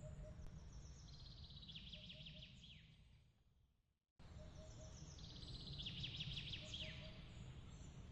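Soft night ambience: a bird's quick run of falling, trilled chirps, heard twice over a low steady rumble. Midway the sound fades out to silence, then cuts back in abruptly, the sign of a looped ambience track restarting.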